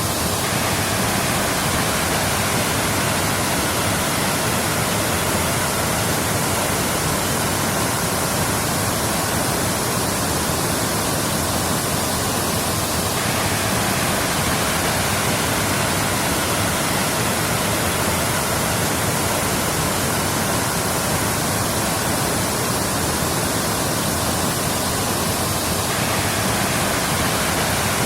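Waterfall: a steady, even rush of falling water, with a slight abrupt change in the hiss about halfway through and again near the end.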